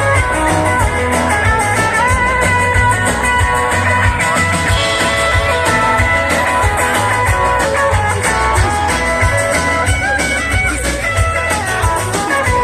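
Live band playing an instrumental passage led by guitar over a steady bass and drum beat.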